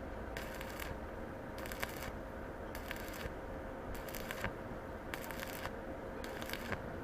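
Arc of a small single-board stick welder crackling and sizzling in short bursts of about half a second, roughly one a second, with sharp pops inside each burst: stitch welding under test after the board repair. A faint steady hum runs underneath.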